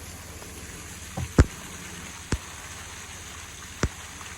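Steady rain hiss with a few sharp taps of drops striking close by, four in all, the loudest about a second and a half in.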